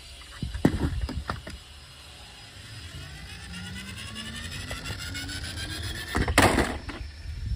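Plastic toy cars clicking and knocking as they are handled, then a toy car's whine rising steadily in pitch for a few seconds, cut off by a short loud rush near the end.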